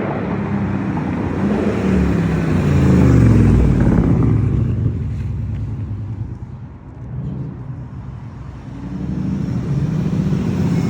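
Mercedes-Benz CLS 550 V8 engine and exhaust running loud, swelling about three seconds in, then falling in pitch and fading, before building up again near the end.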